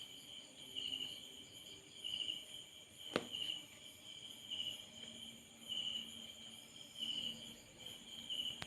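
Insects chirping: a short pulsed chirp repeating about once a second over a steady high hum, with a single sharp click about three seconds in.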